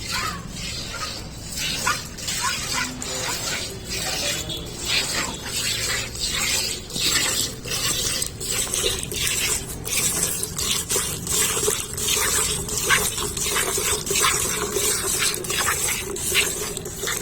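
Milk squirting from a cow's teats into a pail during hand milking, in quick, regular squirts about two or three a second.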